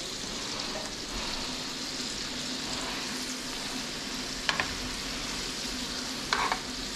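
Lake trout fillets sizzling in melted butter in a frying pan, a steady frying hiss. A metal spoon basting the fish knocks against the pan twice in the second half.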